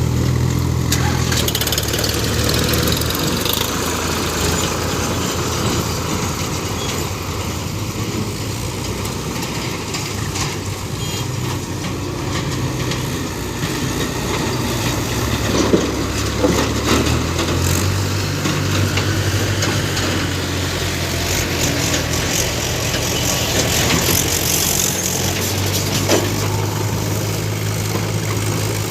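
Heavy diesel engine running under load, its pitch shifting about halfway through, with a few short knocks.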